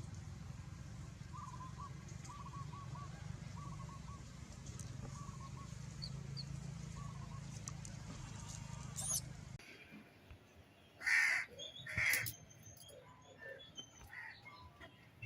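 A low steady rumble that cuts off suddenly, then two loud, harsh crow caws about a second apart, with fainter calls after them.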